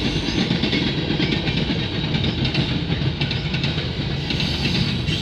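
Gondola cars of a CN freight train, loaded with scrap metal, rolling past: a steady rumble and clatter of steel wheels on the rails, with many small clicks.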